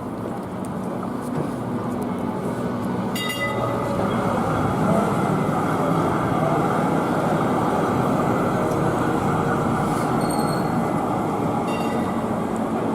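A tram running along its rails, its rumble growing louder over the first few seconds, holding, then easing near the end. Short high-pitched tones ring out about three seconds in and twice near the end.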